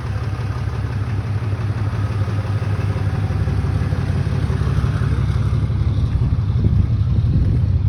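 A motor vehicle engine running steadily with a low rumble, growing slightly louder near the end.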